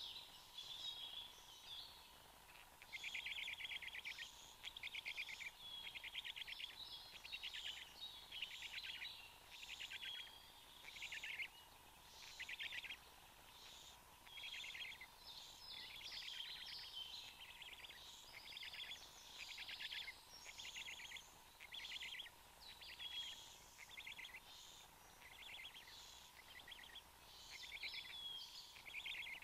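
Bird calls: short, rapid buzzy trills repeated about once a second, faint, over a thin steady hum.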